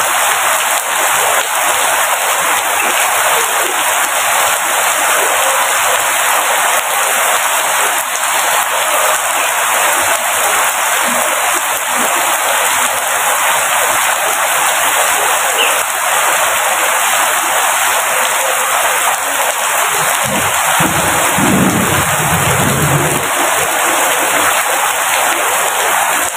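Steady heavy rainfall, an even dense hiss of falling rain, with a brief low rumble about twenty seconds in.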